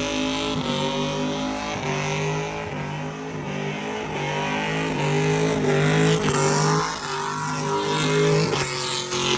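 Engine revving hard in a burnout, held at high revs, its note cutting out and coming back about every second over a steady hiss.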